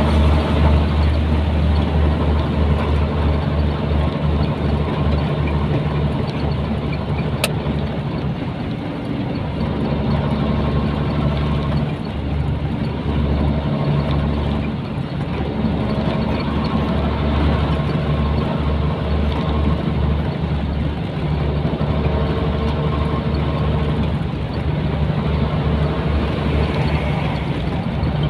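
Nissan Diesel container truck's diesel engine running as the truck drives, a steady low drone that eases slightly around nine and fifteen seconds in, with a single sharp tick a little past seven seconds.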